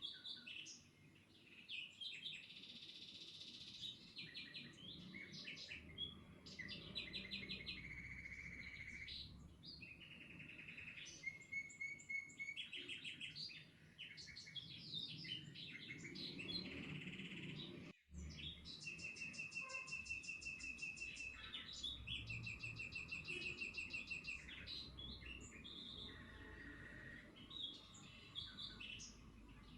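Several birds singing, with rapid trills of short repeated notes and chirps overlapping one another. The sound cuts out for an instant about eighteen seconds in.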